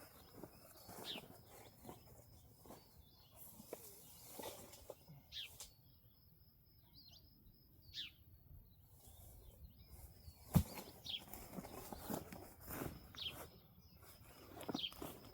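Birds chirping over and over in short falling calls, with scattered light clicks and one sharp knock about ten and a half seconds in.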